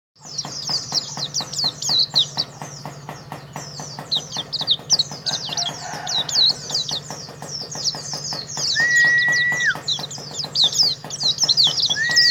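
Pleci (white-eye, Zosterops) singing a fast, unbroken stream of high twittering chirps. Twice near the end a held flat whistle, about a second long, sounds beneath the song, over a steady low hum.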